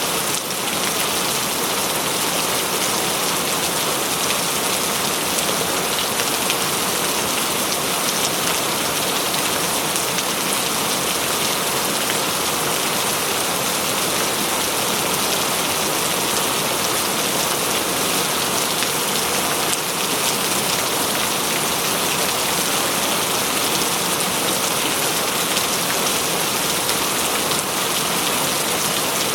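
Steady heavy rain falling on surfaces, a dense even hiss of drops with no thunder.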